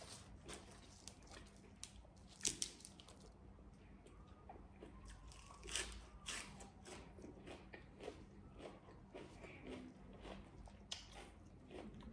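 A person chewing and crunching raw vegetables with chili paste: a run of crisp bites and chewing, the two loudest crunches about two and a half seconds in and near six seconds.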